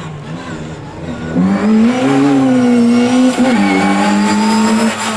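Rally car engine held at high revs, loud from about a second and a half in, with a brief dip in pitch around the middle before it holds steady again.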